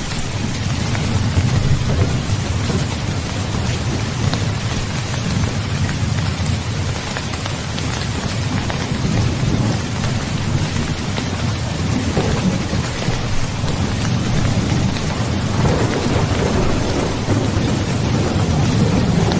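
Heavy rain falling steadily, with low rolling thunder rumbling underneath that swells twice in the second half.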